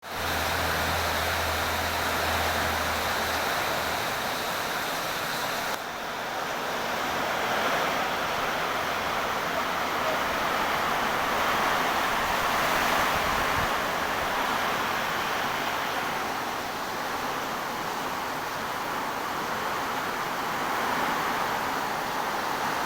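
Heavy rain pouring down with strong wind: a steady, even rushing hiss. A low hum runs under it for the first few seconds.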